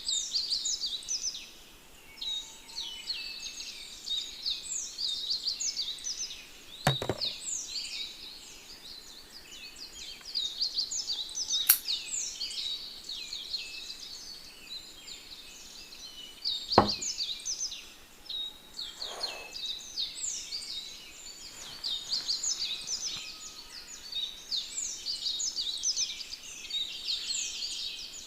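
A dense chorus of many small birds chirping and singing without a break. Three sharp clicks or knocks stand out through it, louder than the birdsong.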